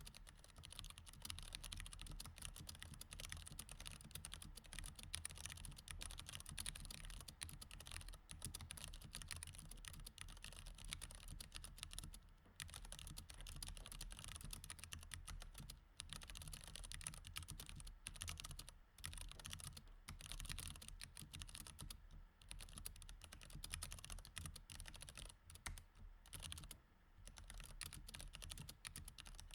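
Mechanical keyboard with Cherry MX Red switches being typed on steadily: a fast, continuous run of key clacks with a few brief pauses.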